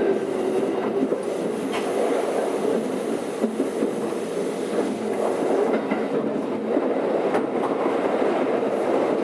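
Keikyu 600 series electric train heard from inside the car: steady running noise with a few sharp clicks of the wheels over the rail.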